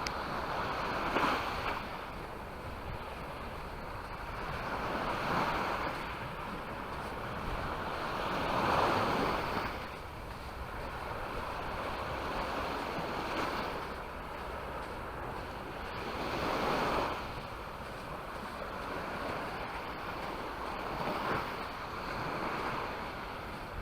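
Small Mediterranean waves breaking on the shore. The surf surges about every four seconds, with a steady wash in between.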